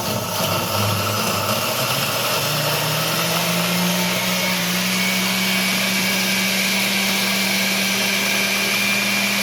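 Electric blender running, blending a liquid marinade of orange juice, garlic, achiote and vinegar. Its motor pitch climbs over the first few seconds, then holds steady with a whine above it.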